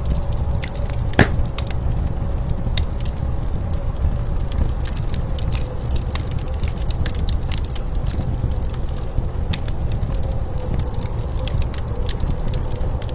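Wood fire crackling with scattered sharp pops, one louder pop about a second in, over a steady low rumble of blizzard wind carrying a faint wavering howl.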